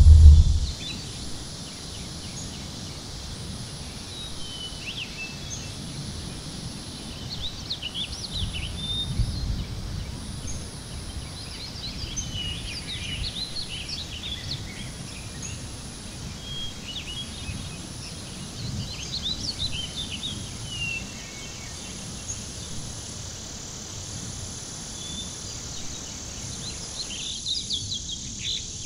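Outdoor nature ambience: many short bird chirps and twittering calls come and go over a steady low background rumble, with a thin, steady high insect-like drone underneath.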